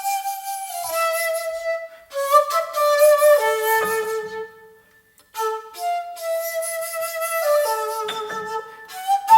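Seven-hole shakuhachi (a 1.6-shaku bamboo flute) playing a slow melody of held, breathy notes in three phrases, with a short breath gap about five seconds in.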